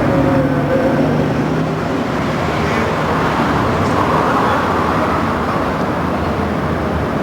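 A steady engine drone with a low hum and a rushing noise, unbroken throughout, from a vehicle in motion.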